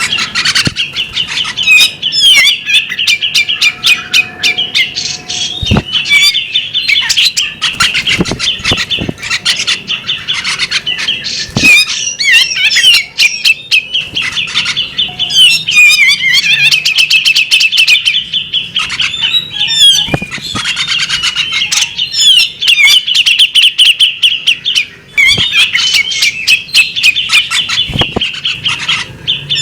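Female bearded magpie robin singing a long, rapid run of chirps and warbled notes with brief pauses, with a few sharp knocks now and then.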